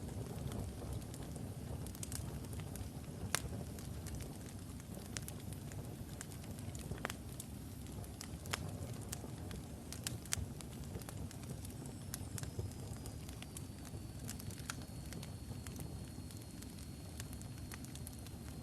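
Logs burning in a fireplace: a steady low rumble of flame with frequent sharp crackles and pops. A faint high whistle comes in a little past the middle, dipping slightly in pitch and then holding.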